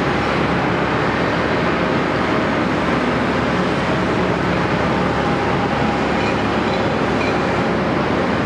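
Caterpillar 329E hydraulic excavator running steadily: continuous engine and hydraulic noise with faint steady whining tones.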